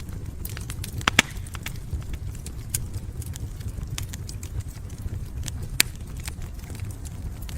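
Fireplace fire crackling, with irregular sharp pops over a steady low rumble of burning; the loudest pops come about a second in and again near the end.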